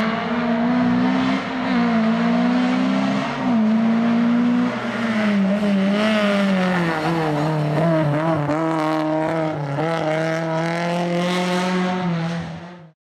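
Skoda Favorit rally car's four-cylinder engine running hard, its revs climbing and dropping again and again. The sound cuts off near the end.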